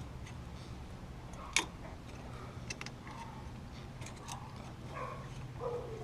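Small clicks and taps of a screwdriver prying plastic harness clips off the ABS wheel-speed sensor cable, with one sharp plastic snap about a second and a half in, over a steady low hum.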